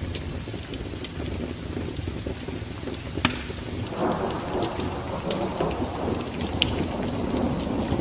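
Wood fire burning in a fireplace: a low steady rumble with sharp crackles and pops scattered throughout, and a louder rushing noise that sets in about halfway through.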